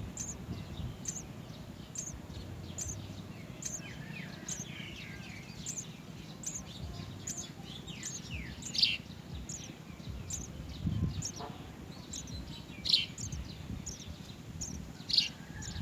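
Small birds chirping: a short high chirp repeating steadily about every second, with a few louder falling chirps standing out near the middle and end.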